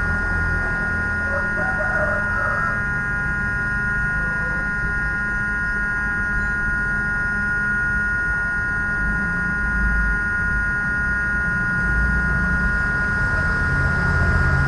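Steady electrical hum with a constant high-pitched whine and a low rumble beneath, unchanging throughout, typical of running bench electronics equipment.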